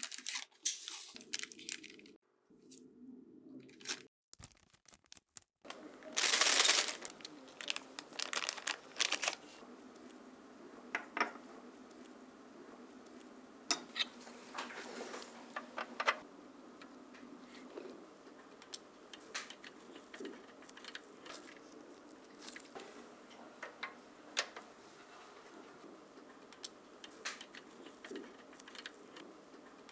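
Scattered light clicks and taps of small parts being handled, with a short, louder rustling, tearing noise about six seconds in.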